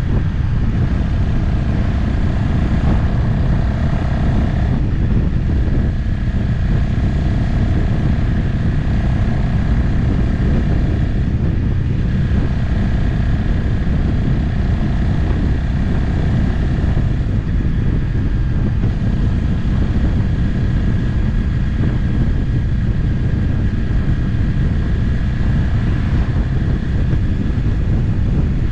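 Motorcycle riding at a steady cruise, the engine running under a heavy rush of wind on the microphone.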